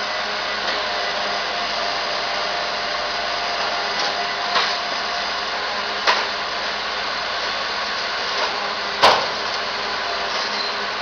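Garbage truck running steadily, with sharp knocks about four and a half, six and nine seconds in, the last one the loudest.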